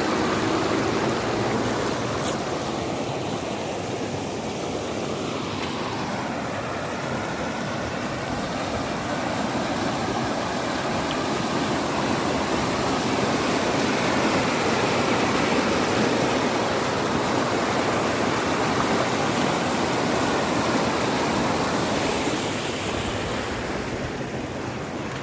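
Floodwater rushing in a swollen river after heavy rain, a steady full roar of moving water.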